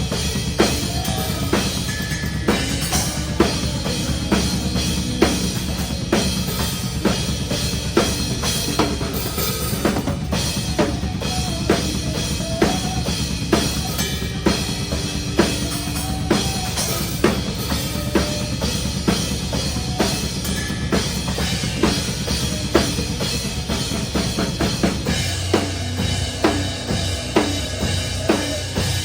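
Live metalcore band playing, heard close up at the drum kit: a constant bass drum pattern and sharp snare hits on a steady beat lead over the dense band sound. Near the end a low held bass note comes in.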